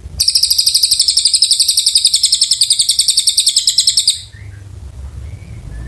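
Cililin bird singing a long, fast, high-pitched rattling trill of about a dozen notes a second that stops abruptly about four seconds in, followed by a few faint short chirps over a low rumble.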